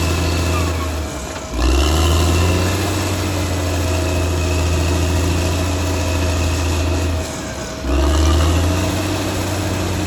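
Caterpillar D6R XL bulldozer's diesel engine running steadily with a deep drone. The engine sound dips briefly twice, about a second in and again near the end, then picks straight back up.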